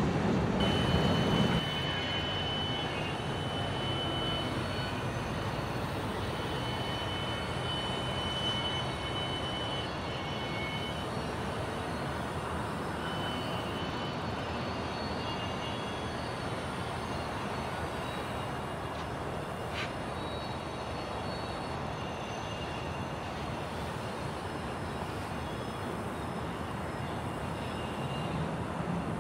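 Freight train rolling past with a steady rumble, and a thin high squeal that comes and goes during the first ten seconds or so.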